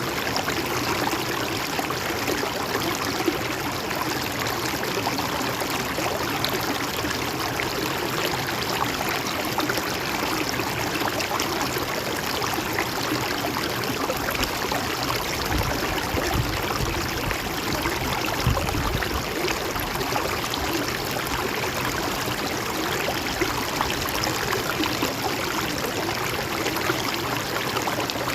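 Stream flowing steadily, with the continuous rushing and trickling of water. A low rumble comes in for a few seconds a little past the middle.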